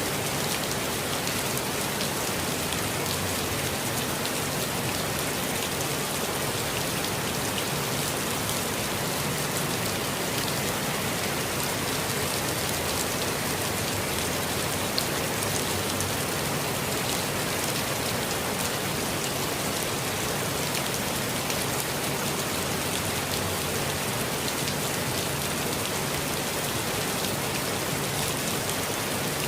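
Steady rain falling on a forest canopy and ground, an even hiss with scattered drop ticks.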